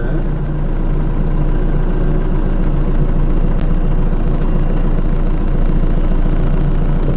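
Forklift engine running steadily, with no revving.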